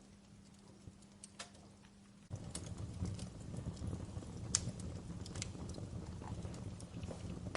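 Wood fire in a fireplace crackling, with irregular sharp pops over a low rumble of burning that turns abruptly louder about two seconds in.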